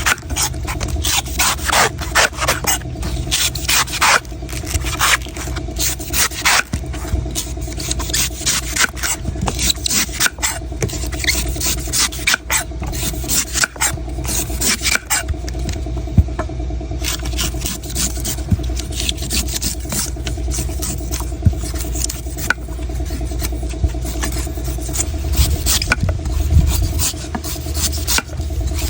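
A knife cutting and scraping a coconut in quick, repeated strokes, over a steady low hum.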